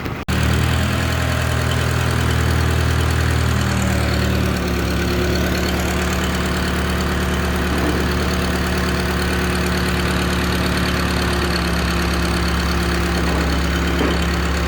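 Heavy diesel engine running steadily at a constant speed, its note changing slightly about four and a half seconds in.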